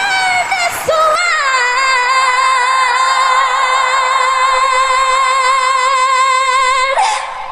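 A woman's solo singing voice holding a long final note with even vibrato for about six seconds, after a short phrase that slides up into it; the note ends with a brief upward flick near the end.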